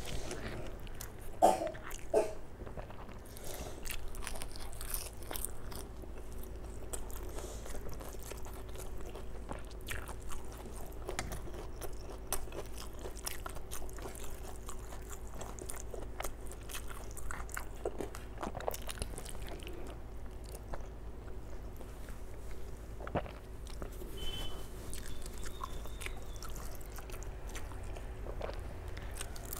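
Close-miked mouth sounds of a person eating rice and curry by hand: wet chewing, smacking and occasional crunching, with a couple of louder smacks about two seconds in. Fingers mixing rice and dal on a steel plate make soft clicks and scrapes between mouthfuls.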